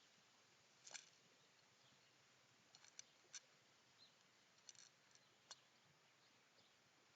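Near silence with a few faint, sharp clicks at irregular intervals, the loudest about a second in.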